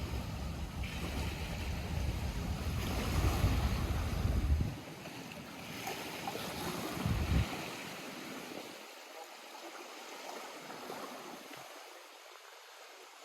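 Lake water lapping and splashing at the shore. Heavy wind rumble on the microphone over the first few seconds stops suddenly, leaving softer lapping that fades toward the end.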